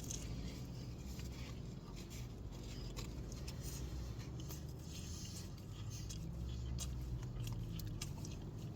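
A man chewing a mouthful of sandwich, with scattered small wet clicks and rustles over a steady low hum.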